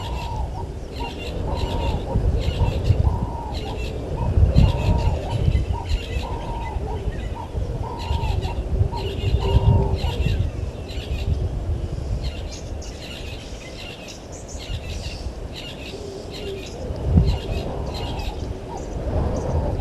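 Wild birds calling at a waterhole: a repeated mid-pitched call, a short phrase about once a second, over many quick high chirps from smaller birds, with a low rumble swelling and fading underneath.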